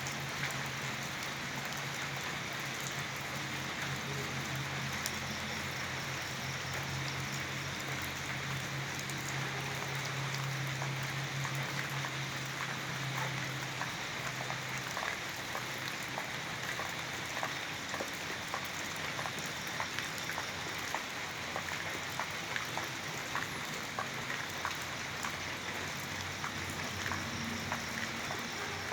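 Steady rain falling, with many separate drops ticking close by, more of them in the second half. A low steady hum underneath stops about halfway through.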